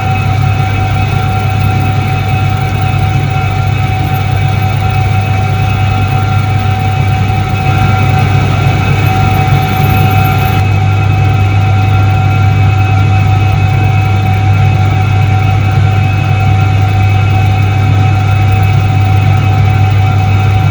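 Soviet ISET-3 washing machine (1978) running: a steady electric-motor hum with several constant higher tones, getting a little louder about eight seconds in.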